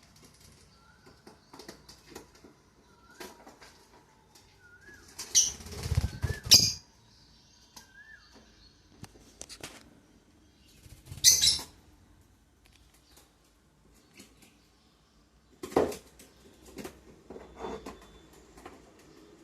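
Pet lovebirds flapping their wings in loud bursts: a long flurry about five seconds in, a shorter one about eleven seconds in and a brief one near sixteen seconds. Between the bursts come soft short chirps and small clicks.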